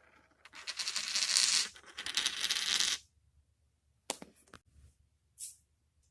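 Small hard objects rattling and jingling for about two and a half seconds, followed by a few separate light clicks.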